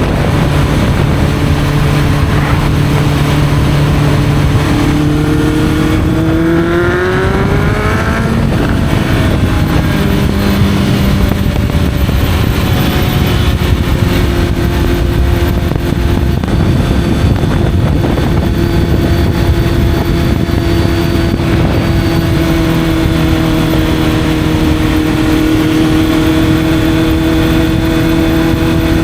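Honda CB650F's inline-four engine with an Arrow aftermarket exhaust, running under way. About six seconds in it revs up for a couple of seconds, drops sharply at a gear change, then settles into a steady cruise.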